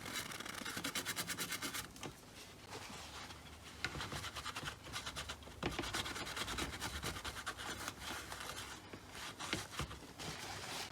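Rapid back-and-forth scrubbing on a circuit board, cleaning the desoldered pads with IPA alcohol. A quick run of strokes fills the first two seconds, followed by softer, on-and-off rubbing.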